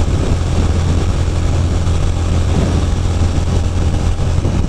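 Ducati Monster 620's air-cooled V-twin engine running steadily at highway cruising speed, with a constant rush of wind noise.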